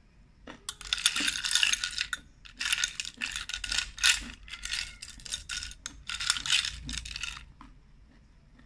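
Close-up crunching of a person chewing crisp candied pickled young mango (mamuang bao chae im): a quick irregular run of sharp crunches starting about a second in and stopping near the end.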